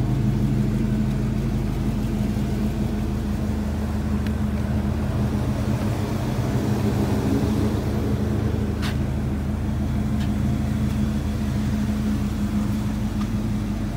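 Oldsmobile Cutlass muscle car's engine idling steadily, with a single light click about nine seconds in.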